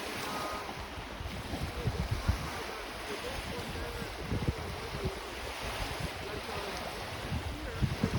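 Lake waves washing on the shore under a steady wind, with gusts buffeting the microphone about two, four and eight seconds in.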